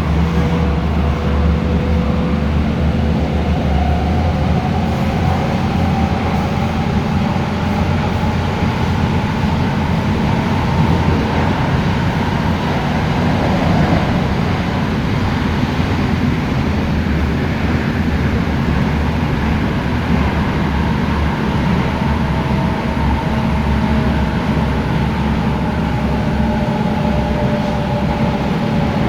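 MTR Tung Chung Line K-Train, a Hyundai Rotem electric multiple unit, running at speed: a steady rumble of wheels on rail with a faint traction-motor whine slowly drifting in pitch.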